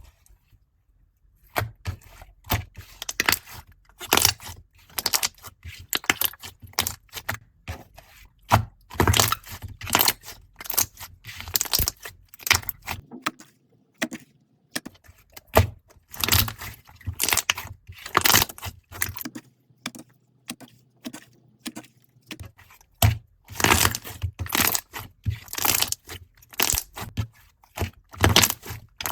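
Slime being squeezed and pressed by hand, giving a dense run of irregular crackling and popping clicks with short pauses between handfuls.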